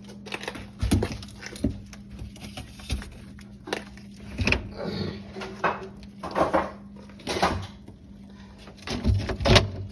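Ice being knocked, pried and scraped loose inside an old freezer compartment by hand: about a dozen irregular knocks and scrapes, the loudest pair near the end.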